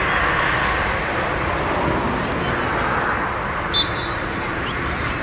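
Steady outdoor background noise with a brief, sharp high whistle about four seconds in.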